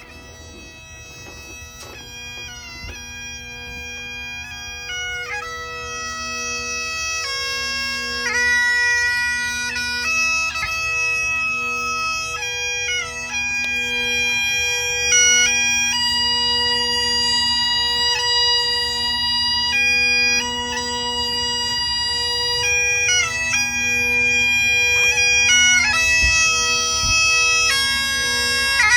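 Bagpipes playing a slow melody over steady drones, the tune broken by quick grace-note flourishes between notes. The sound grows louder over the first several seconds, then holds.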